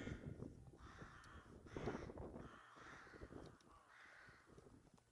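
Crows cawing repeatedly, a harsh call about once a second, growing fainter near the end.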